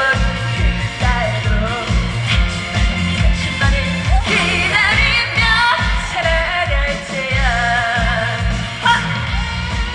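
A trot song sung live with vibrato on the held notes, over band accompaniment with a steady beat.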